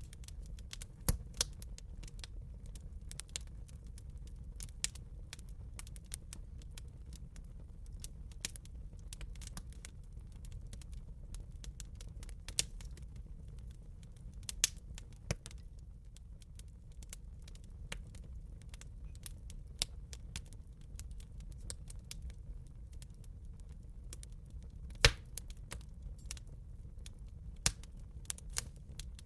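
Wood fire crackling in a fireplace: irregular sharp pops and snaps over a steady low rumble of the flames, with a few louder pops, the loudest a little before the end.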